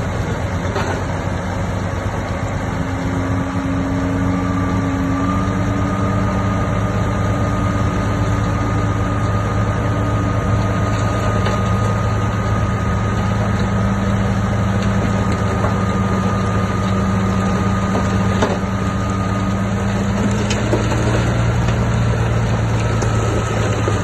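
Heavy diesel engine of earthmoving machinery running steadily, with a thin high whine above it that steps up slightly about five seconds in and again near the end.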